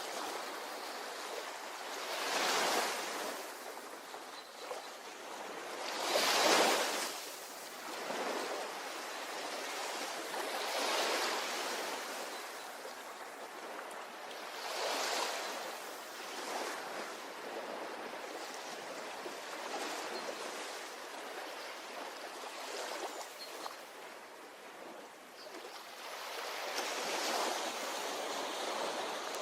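Ocean waves breaking on a shore: a steady wash of surf that swells and fades about every four seconds, the loudest break about six seconds in.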